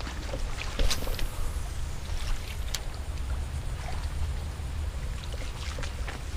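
Steady low outdoor rumble with scattered light clicks and taps; the loudest tap comes about a second in.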